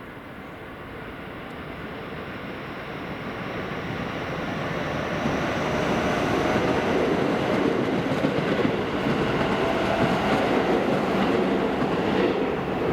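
Electric commuter train approaching, growing steadily louder over about six seconds, then running past loud and close.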